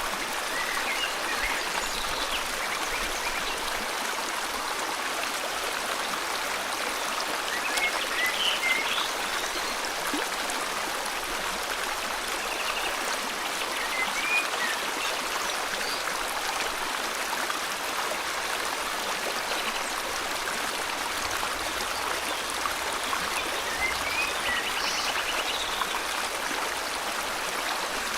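River water flowing steadily, with scattered short bird chirps and a couple of quick trills over it.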